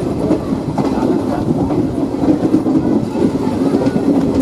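Passenger train running, heard from on board: a steady rumble with the clatter of wheels over the rails.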